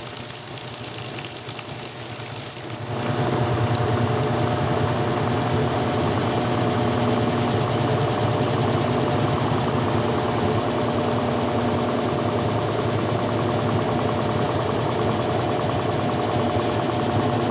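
Electrolux Top 8 top-loading washing machine in its rinse cycle: a motor comes on about three seconds in, the sound stepping up to a steady, even hum.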